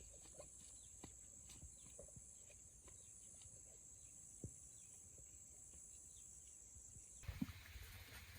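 Faint, steady high-pitched drone of insects, typical of crickets, with a few soft ticks. The drone cuts off suddenly near the end, where a couple of dull thumps are heard.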